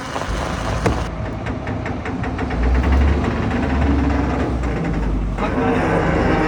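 Stone crusher machine running: a heavy engine rumble with a fast, even knocking, the rumble growing louder about two and a half seconds in and the knocking stopping about five seconds in.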